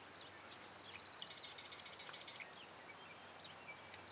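Faint birdsong: scattered short high chirps, with a fast trill of rapidly repeated notes about a second in that lasts about a second.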